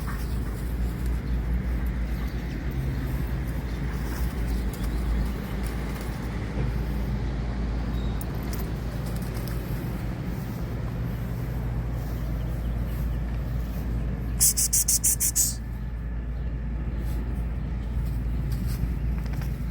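Steady low outdoor rumble. About fifteen seconds in comes a brief, loud run of rapid fluttering pulses.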